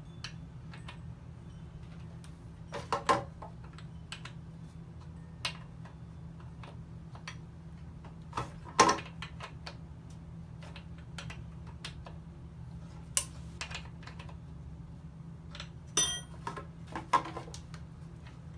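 Scattered clicks, clacks and knocks from a chainsaw being handled and adjusted, the loudest about 3, 9 and 16–17 seconds in, over a steady low hum. The saw is not running.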